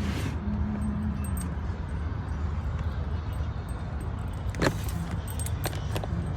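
A steady low rumble, with scattered light clicks and clinks and one sharper clink about four and a half seconds in.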